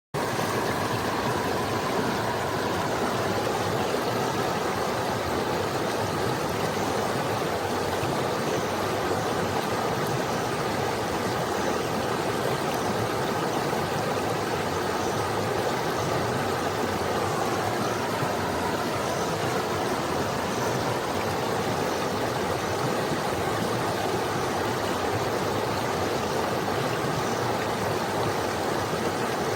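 Small forest stream flowing over rocks: a steady, even babble of running water.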